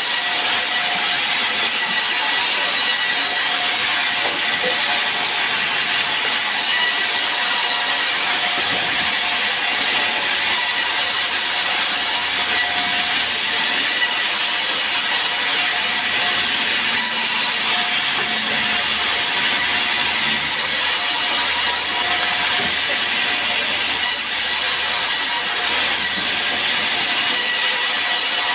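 Sawmill machinery running steadily, a loud, even hiss with no pauses.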